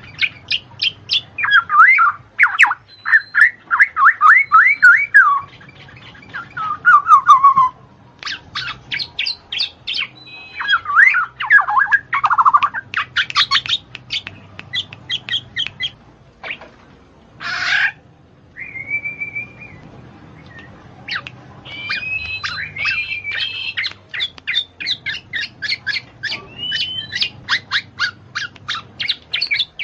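A songbird singing a long, varied song of rapid chirps, sweeping trills and short whistled notes, broken by brief pauses.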